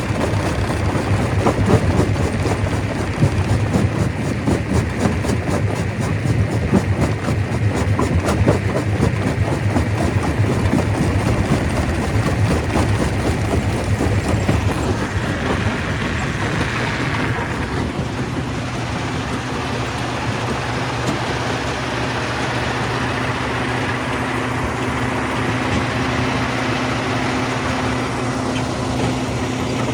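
Stone crusher running: a steady machine hum with dense clattering and knocking of rock for about the first half, easing to a steadier hum with less clatter after about fifteen seconds.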